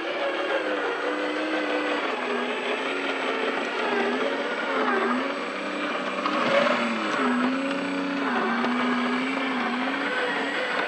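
Radio-control truck's motor and gearbox whining as it drives, the pitch rising and falling again and again with the throttle.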